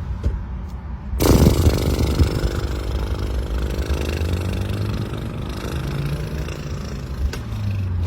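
Car engine: a low rumble, then a sudden loud surge about a second in, after which the engine runs steadily.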